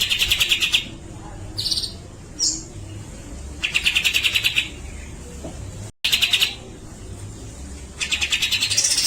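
Grey-cheeked bulbul (cucak jenggot) singing: fast rattling trills of about a dozen notes a second, each burst lasting up to a second and repeated four times, with short single whistled notes between.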